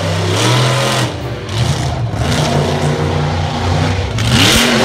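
Monster truck engine running loud under hard throttle, its pitch shifting as it revs, with a sharp rev up and back down near the end.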